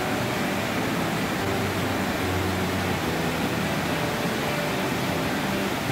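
Waterfall with water cascading over rock drops, a steady, unbroken rush of falling water.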